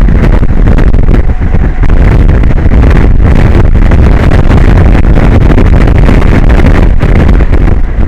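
Strong wind buffeting the microphone: a loud, constant rough rumble, heaviest in the low end, that overloads the recording.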